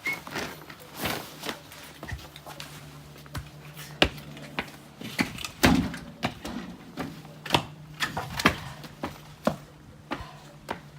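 Irregular knocks and thumps, a dozen or more sharp hits with the loudest about four and six seconds in, over a steady low hum.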